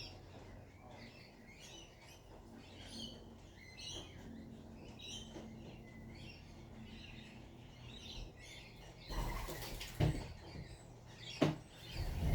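Small birds chirping over and over in short high notes. In the last few seconds there is a louder rush of noise and two sharp knocks.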